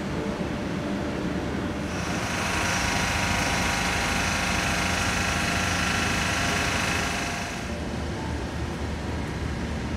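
Steady low rumble of a standing passenger train and station machinery. From about two seconds in, a louder whining hiss rises over it and holds until nearly eight seconds, then falls away.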